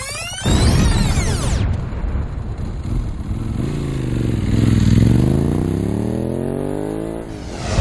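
Motorcycle engine revving, its pitch dipping and then climbing again over a few seconds, after a burst of fast sweeping whooshes at the start.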